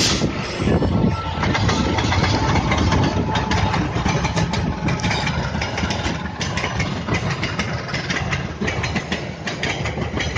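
Passing train: a diesel locomotive's steady engine rumble with rapid clicking from the wheels and rails.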